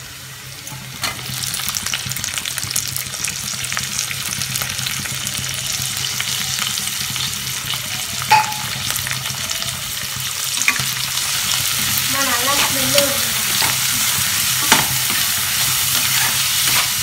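Chopped onion and green capsicum sizzling in hot oil in a wok as they are stir-fried with a metal spatula. The sizzle picks up about a second in as the capsicum goes in. A few sharp clacks come from the spatula striking the pan.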